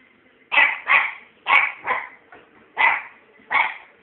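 Puppy barking: six short, sharp barks, some in quick pairs, starting about half a second in.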